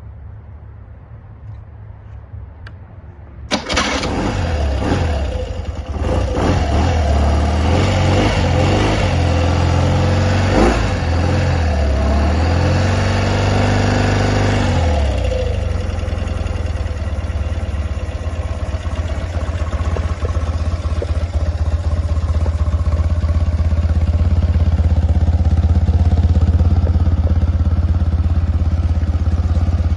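1985 BMW R80 G/S Dakar's air-cooled boxer twin engine starting from cold: it catches suddenly about three and a half seconds in, is revved unevenly for about ten seconds, then settles into a steady idle.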